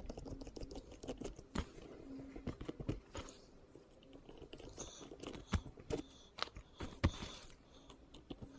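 Irregular small clicks, taps and light scrapes of a stripped-down RC servo's small plastic and metal parts being handled and worked on.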